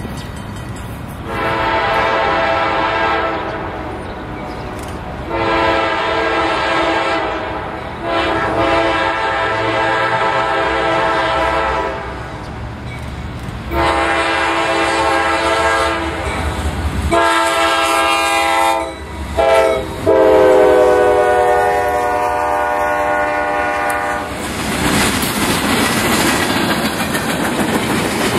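Norfolk Southern freight locomotive's air horn sounding a series of long blasts with two short ones near the middle; during the last long blast its pitch drops as the locomotive passes. Then the loud rumble and clickety-clack of covered hopper cars rolling by.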